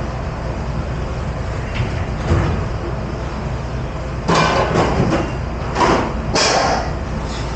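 Dishes and utensils clattering and knocking in a restaurant dish pit over a steady low machine rumble. A few knocks come about two seconds in, and a denser run of clatter starts just past four seconds.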